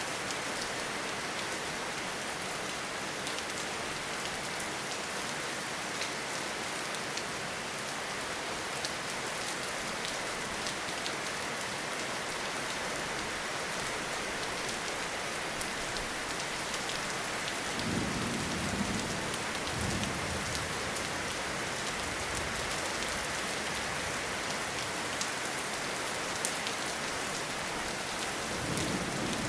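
Steady rainfall with scattered individual drops ticking, and brief low rumbles of thunder a little past halfway and again near the end.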